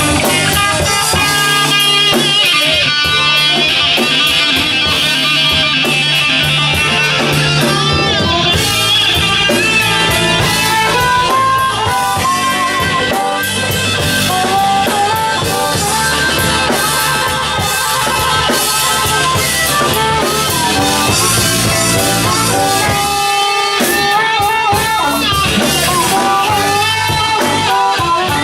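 Live blues band playing an instrumental passage: electric guitar leading with bent notes over drum kit and bass.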